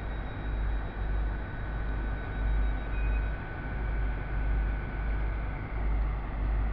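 Train pulling slowly into the station platform: a low, uneven rumble with a faint steady whine that holds for a few seconds in the middle.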